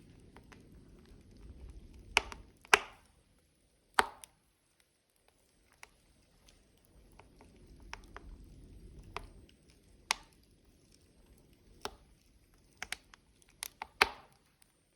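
Logs burning in a wood fire: irregular crackling with sharp pops, the loudest a few seconds in and again near the end, over a soft low rush of flame that swells twice.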